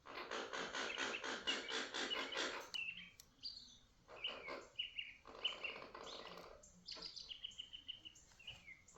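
Pet bird vocalising: a fast rhythmic chatter that sounds like laughing for about three seconds, then a string of short chirps and whistles, several falling in pitch.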